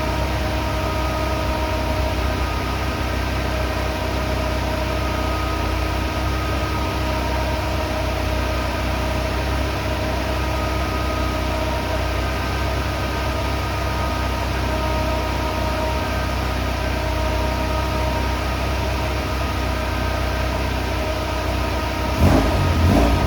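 Toyota AE86 fitted with an AE111 20-valve 4A-GE inline-four idling steadily, then revving sharply on a throttle blip near the end.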